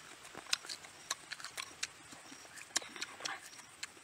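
Close-up chewing of raw green mango: irregular sharp crunching clicks, several a second.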